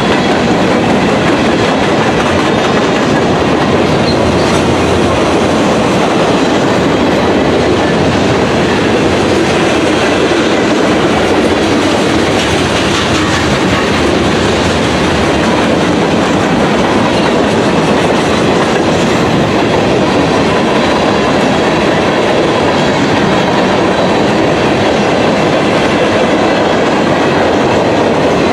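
Freight train rolling past, a loud, steady noise of wheels on rail that holds without let-up.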